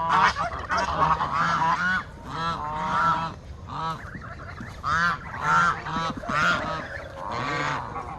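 A group of domestic geese honking, many short calls overlapping and repeating without a break.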